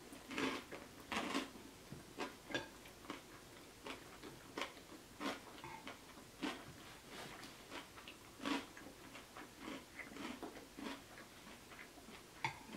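Close-miked chewing of a mouthful of creamy bowtie Caesar pasta salad with the lips closed: soft, irregular wet mouth clicks and smacks, a few every couple of seconds.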